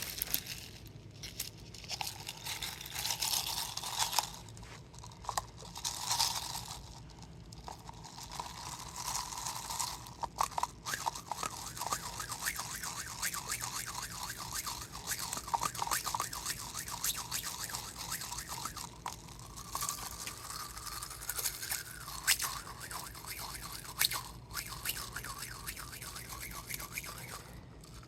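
Partly frozen, crinkly plastic water bottle being squeezed and handled: the thin plastic crinkles and crunches in dense, rapid crackles, with ice and water shifting inside.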